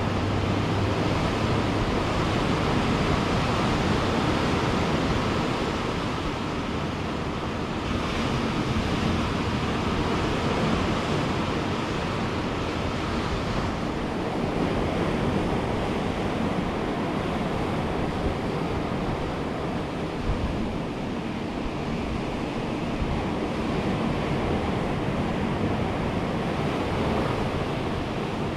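Ocean surf breaking and washing on a beach, a steady rush that swells and eases slowly, with some wind on the microphone.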